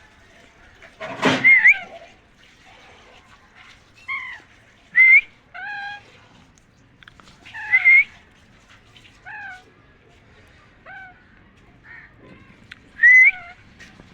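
Alexandrine parakeet making short whistled calls, about nine of them, some rising with a hook at the end and others gliding downward, with the loudest about a second and a half in, at five and eight seconds, and near the end. A brief noisy burst comes about a second in.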